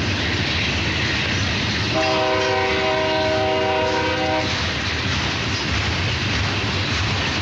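Several BNSF diesel locomotives working hard to lift a heavy coil train upgrade, a steady heavy rumble of engines and rolling wheels. About two seconds in, the lead locomotive's multi-note air horn sounds one chord for about two and a half seconds.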